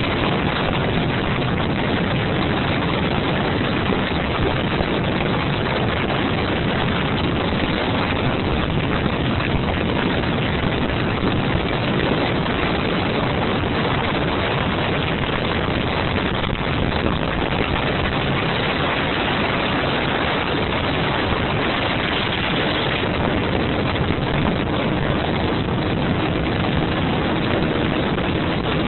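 Motorcycle under way: a loud, steady, even rush of engine and road noise that hardly changes.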